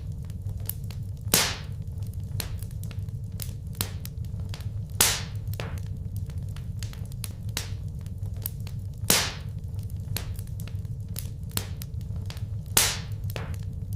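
Wood fire burning in a fireplace: a steady low rumble under constant small crackles, with four louder pops, each sliding quickly down in pitch, spaced about four seconds apart.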